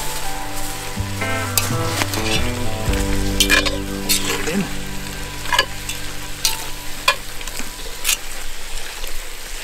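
Meat and peppers sizzling in a cast-iron Dutch oven, with a utensil stirring and scraping in the pot in scattered clicks.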